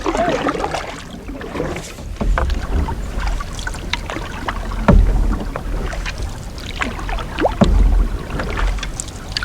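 Canoe being paddled: paddle strokes pulling through the water with drips and small splashes, and a low thud about every two and a half seconds.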